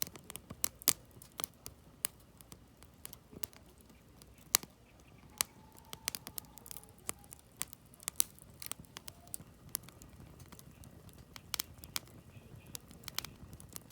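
Firewood burning in a campfire, crackling with irregular sharp pops and snaps over a soft steady hiss.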